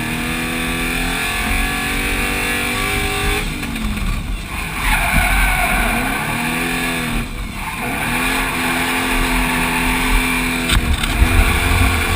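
V8-swapped Nissan Hardbody drift truck drifting, its engine revs climbing and dropping in several pulls while the tires squeal, the squeal strongest a little before the middle.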